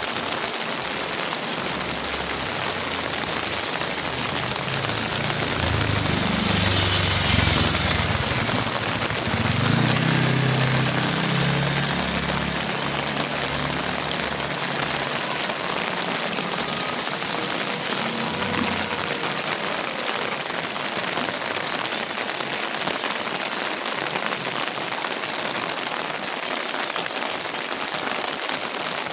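Heavy rain falling steadily. A low rumble swells in about six seconds in and fades out around nineteen seconds.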